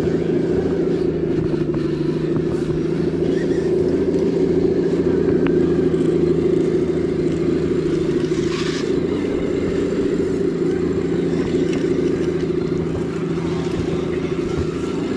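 A steady, unchanging engine-like drone, with a short scraping rush about eight and a half seconds in.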